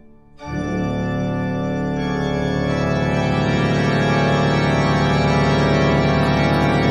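Background organ music: a sustained, held organ chord that comes in about half a second in and swells slowly louder.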